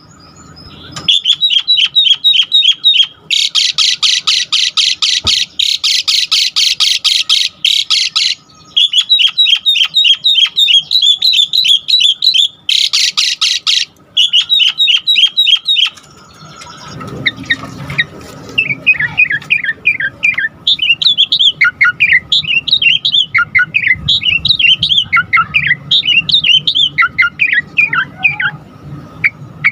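Asian pied starling (jalak suren) calling and singing. For the first half it gives loud, harsh, rapid chattering runs in long bursts. About halfway through it changes to a quicker string of varied whistled notes over a faint steady hum.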